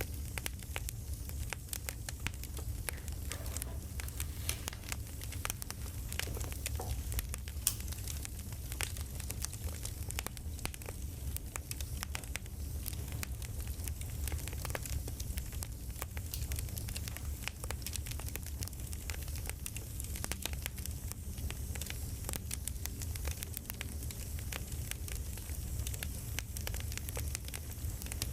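Campfire crackling: a steady low rumble of burning wood with many scattered sharp pops and snaps.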